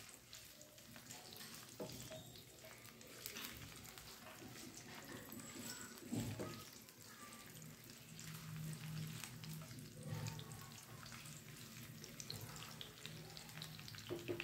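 Garlic, ginger and green chillies frying in oil in a nonstick wok with a faint sizzle, while a silicone spatula stirs them, with light scraping clicks against the pan.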